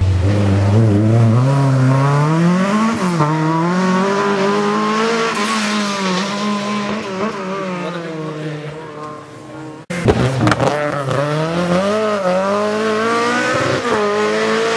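Rally car engine revving hard, its pitch climbing and dropping repeatedly through gear changes, fading away as the car goes on. Just under ten seconds in the sound cuts off suddenly and another rally car comes in at high revs.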